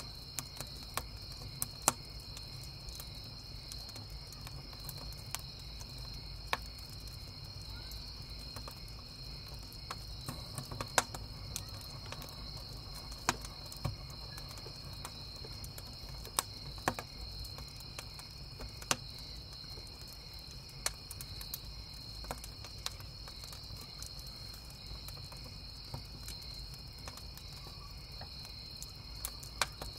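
Crickets chirping in a steady high trill, over a wood campfire crackling with irregular sharp pops, a few of them much louder. A low steady rumble lies underneath.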